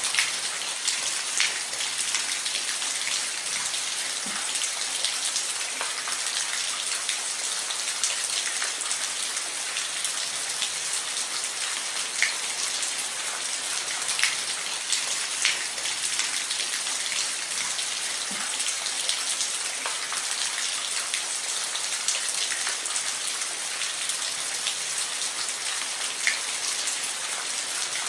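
Steady rain falling on a roof, a dense even hiss with scattered louder individual drops ticking through it.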